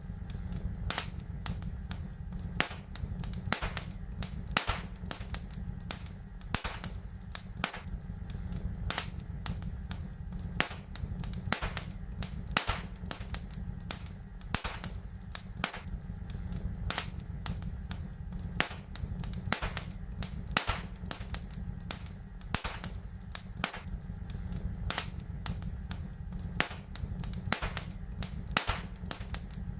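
Fireplace fire crackling, with many sharp irregular pops and snaps over a steady low rumble.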